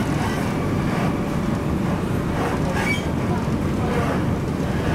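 MTR Tung Chung Line K-train running, heard from inside the passenger car as a steady rumble.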